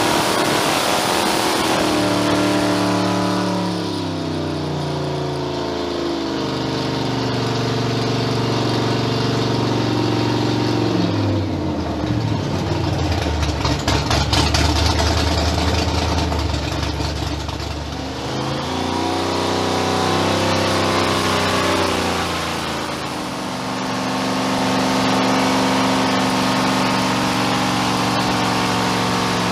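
Supercharged 565-cubic-inch big-block Chevy V8 with fuel injection, running on an engine dyno. It is revved and eased back several times, drops to idle for several seconds in the middle, and is brought back up about twenty seconds in.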